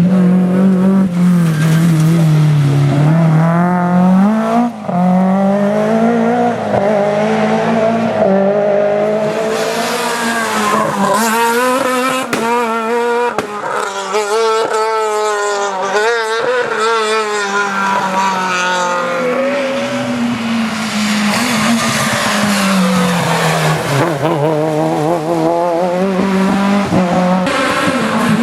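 Rally car engine running hard through the gears, its pitch climbing and dropping again and again as it accelerates and brakes, with a fast wavering stretch around the middle.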